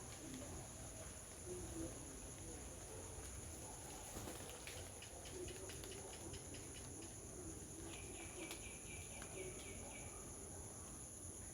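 Steady high-pitched drone of insects, two even tones held throughout, with a fast run of ticking calls in the middle and a short rapid stuttering call about eight seconds in.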